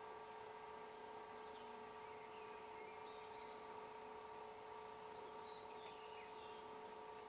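Faint birdsong, a scatter of short chirps and trills, over a steady hum and hiss.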